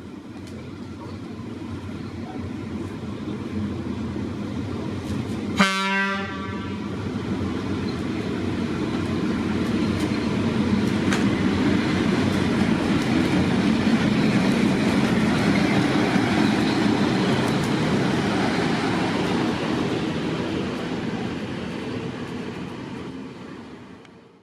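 EP07 electric locomotive gives a short horn toot about six seconds in, then runs past. Its running noise swells to a peak in the middle and fades away near the end.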